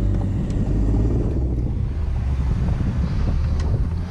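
C8 Corvette's V8 engine running at low speed with tyre and road rumble, heard from inside the car.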